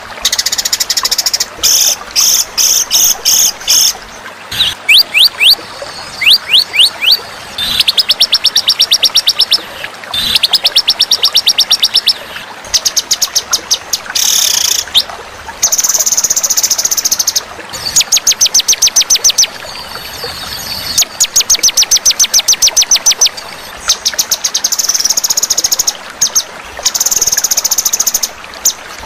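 Songbird masteran (song-training) recording: loud, rapid trains of high chirps and trills in bursts of one to two seconds with short pauses between them, and a few quick rising whistles about five to seven seconds in.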